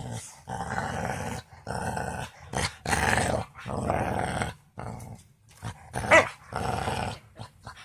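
Excited pet dogs growling in short rough bursts, with a short pitched whine about six seconds in.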